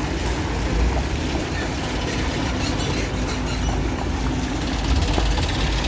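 A vehicle on the move: a steady low rumble of engine and road noise, with a faint steady hum and a few small rattles.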